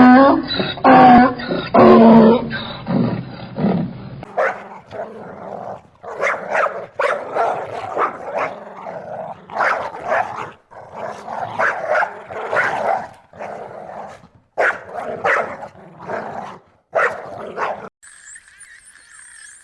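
Dog barking loudly several times, then a dog growling and barking in a long run of short, irregular bursts.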